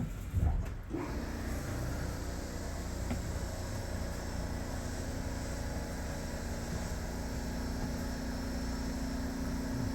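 Aichi Loop Railway 2000 series train at a station: a single loud thud about half a second in, then a steady hum with a low steady tone that grows stronger in the second half.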